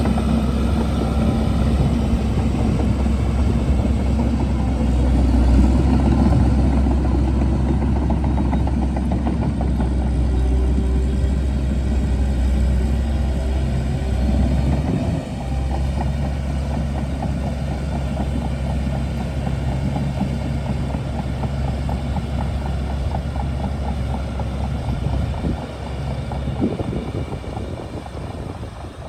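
Shantui DH17C2 bulldozer's diesel engine running steadily and loudly while working. It drops somewhat in level about halfway through and eases off further near the end.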